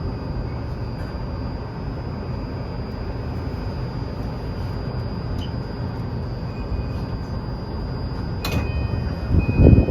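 Tokyu 2020 series electric train heard from on board: a steady rumble of the car running on the rails. A sharp clack comes about eight and a half seconds in, and a louder low surge just before the end.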